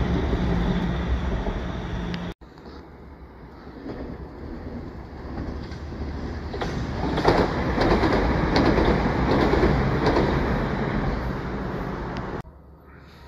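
Passenger trains passing below. First a train running out with a dense rumble and a steady hum, cut off suddenly at about two seconds. Then a green-and-white Southern train grows louder as it approaches and runs under, its wheels clicking over the rail joints at the loudest point, until the sound cuts off shortly before the end.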